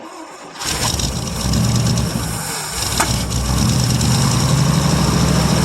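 1959 International B120 pickup engine firing on gas poured into the carburetor and running unevenly. It stumbles briefly, gives one sharp pop about three seconds in, then settles into a steady run. The fuel pump is not drawing gas from the tank, so the engine is living only on what was poured into the carburetor.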